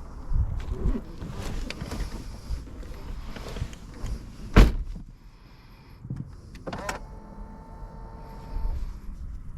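Handling noises at a Jaguar F-Type: a loud thump about halfway in, then a click and a power window motor's steady whine for about two seconds.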